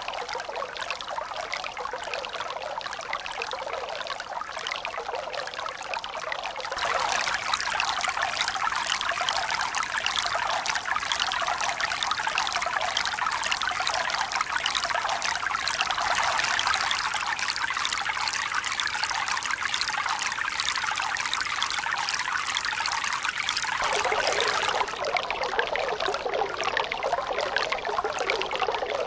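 Steady running water, trickling and pouring without pause. It turns abruptly fuller and brighter about seven seconds in and shifts again near the end.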